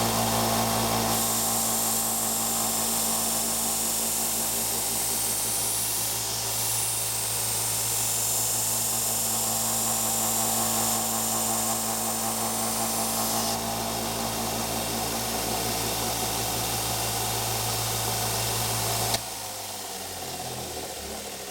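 Belt sander running with a 150-grit belt as a knife blade's edge is ground against it, a high hissing grind over a steady motor hum from about a second in until past the middle. The motor hum cuts out near the end.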